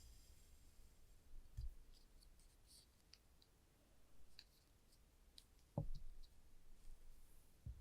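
Small clips, clamps and tweezers being set down on a surface: sparse faint clicks and a few soft thumps, the loudest nearly six seconds in.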